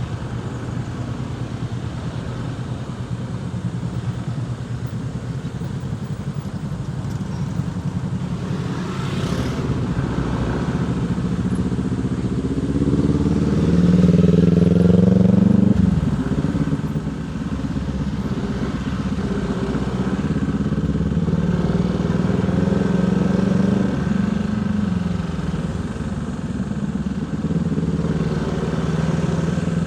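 Motorcycle engine running at low revs, then pulling up in pitch about halfway through, dropping sharply when the throttle comes off, and picking up again twice more, as in slow stop-and-go riding.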